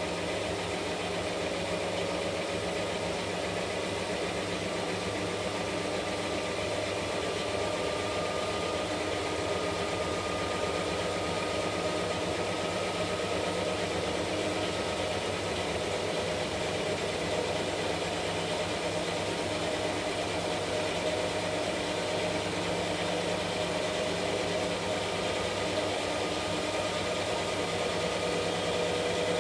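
Washing machine running: a steady motor hum with a few tones that drift slowly up and down in pitch.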